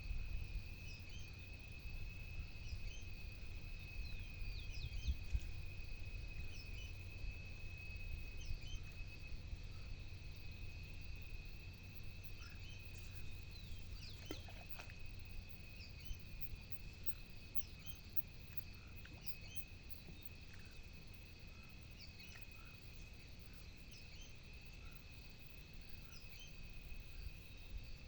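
Outdoor nature ambience: many short bird chirps scattered over a steady high-pitched insect drone, with a low rumble underneath that eases off after about the halfway point.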